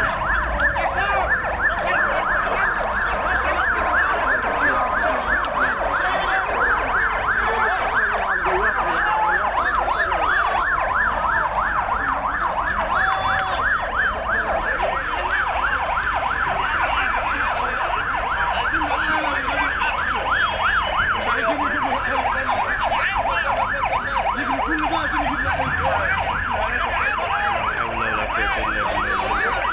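Emergency vehicle sirens sounding continuously in a rapid up-and-down yelp.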